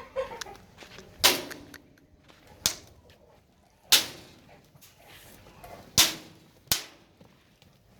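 A series of five sharp knocks or bangs, irregularly spaced, each dying away quickly.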